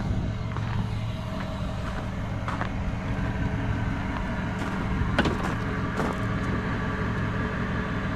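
A steady low engine hum, with a couple of sharp clicks about five and six seconds in.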